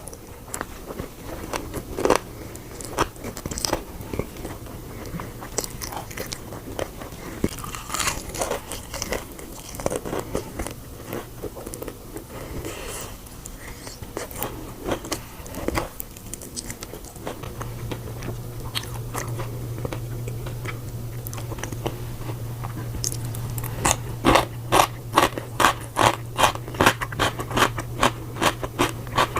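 A person biting and chewing crunchy food close to the microphone: scattered crisp bites and crunches, then fast, even crunching chews, about three a second, over the last few seconds.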